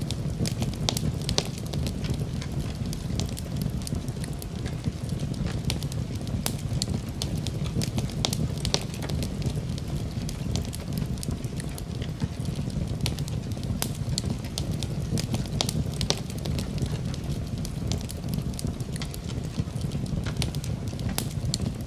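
Wood fire burning in a fireplace: a steady low rumble of flame with frequent sharp crackles and pops from the burning wood.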